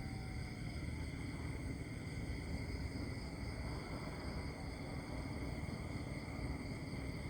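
Countryside nature ambience: a steady low rumble under a constant high-pitched hum of several even tones, with no distinct events.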